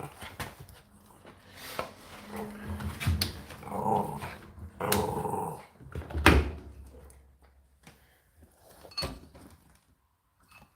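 An animal growling and whining in short pitched bouts, with a few sharp knocks in between.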